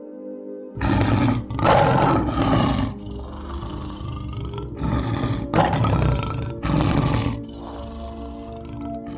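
Lion roaring, about five loud roars in a row over the first seven seconds or so, with steady background music underneath.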